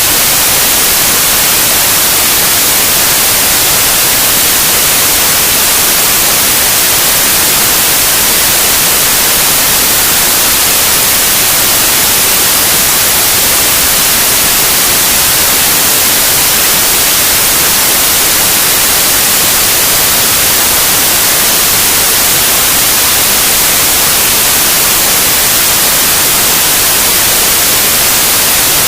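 Loud, steady white noise: an even, unchanging hiss.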